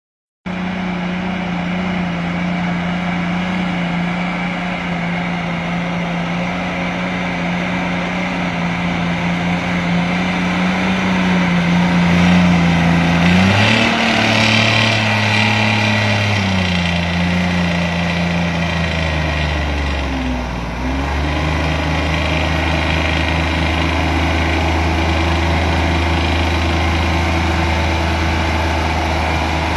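Old log truck's engine running, its pitch rising for a few seconds about halfway through, falling back, then dipping briefly and settling to a steady lower pitch.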